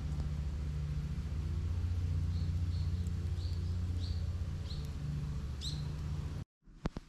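A steady low motor hum with a bird chirping repeatedly over it, a short rising chirp about every half second through the middle; the sound cuts off abruptly near the end and gives way to a few sharp clicks.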